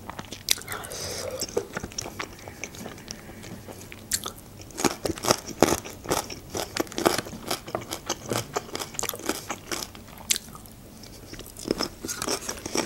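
Close-miked chewing of a mouthful of chicken and mushroom julienne: many small wet mouth clicks and smacks, quieter for a second or so near the end.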